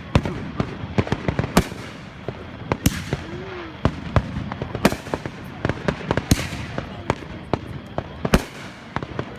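Consumer fireworks going off: a rapid, irregular string of sharp bangs and pops, with about five louder reports among many smaller ones and a brief hiss ahead of some of them.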